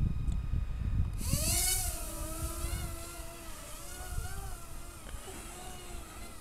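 Parrot Swing minidrone's small electric motors and propellers starting up about a second in: a high whine that wavers in pitch, with wind buffeting the microphone as a low rumble.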